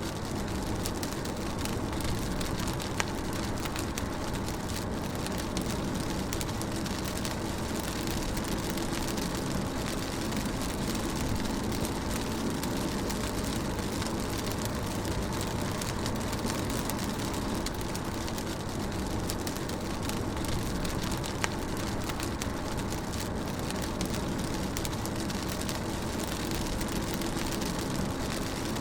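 Rain falling on a moving car, heard from inside the cabin: a steady hiss of rain over the low rumble of the engine and tyres, with a sharp drop tick now and then.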